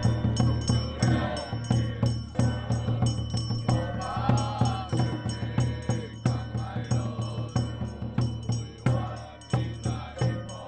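Temple ritual music: steady low beats with rattling percussion and high ringing tones, with a wavering melodic line about four to five seconds in.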